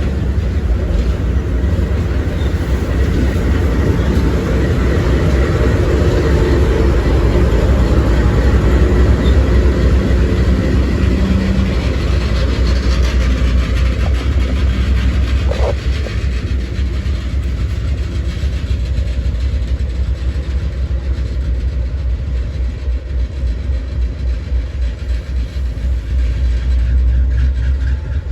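BNSF intermodal freight train rolling past, a steady loud rumble of wheels on rail with repeated clacking over the joints, easing a little in the second half.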